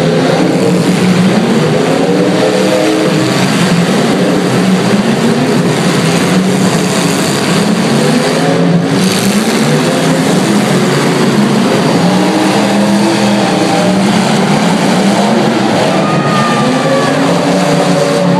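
Several demolition derby car engines revving at once, their pitches rising and falling over and over as the cars accelerate and back off.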